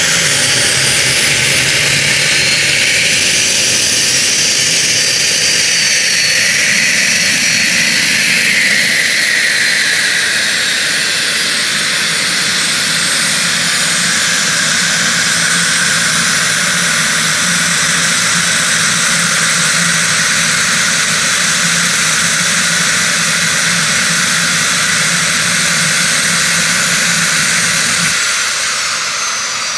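Twin Pratt & Whitney Canada PW530A turbofans of a Cessna Citation Bravo running at low power, a steady high whine over a low hum. Near the end the sound drops slightly and a high tone starts to fall in pitch, as an engine begins to spool down.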